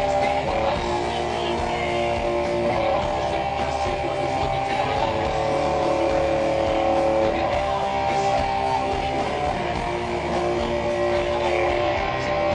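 Live rock band playing an instrumental passage: electric guitar holding sustained notes and chords that change every second or two, over bass, with no vocals.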